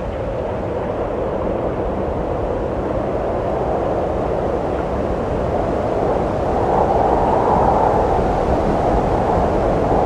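Wind blowing steadily as a low rushing noise, swelling into a stronger gust about seven seconds in.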